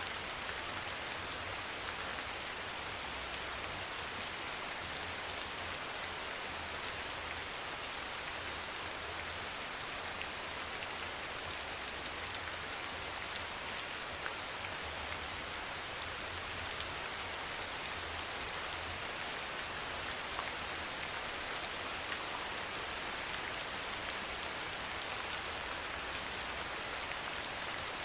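Steady rain: an even, dense hiss of falling rain with scattered individual drop ticks, over a faint low rumble.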